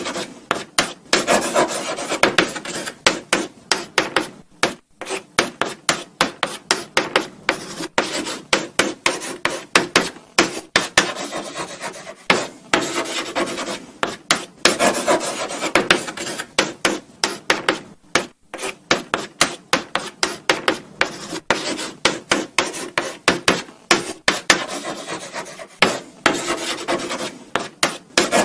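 Chalk writing on a blackboard: quick, irregular scratchy strokes and taps, one after another, with brief pauses between words.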